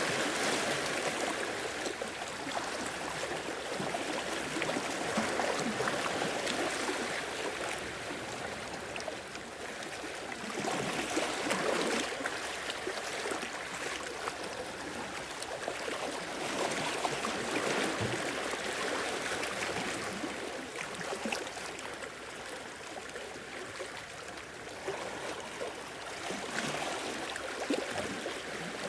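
Sea waves washing onto the shore and draining back, surging louder every several seconds.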